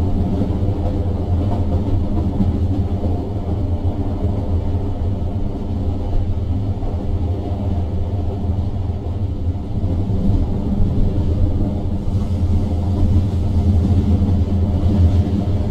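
Passenger train running at speed, heard from inside the carriage: a steady low rumble from the wheels and running gear.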